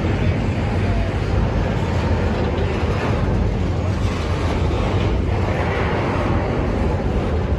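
Norfolk Southern intermodal freight train rolling past, with a steady low rumble of its wheels on the rails.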